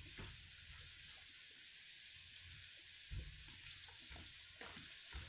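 Faint, steady hiss of fried rice cooking in a wok over a low flame, with a few soft low knocks as containers are handled beside the stove.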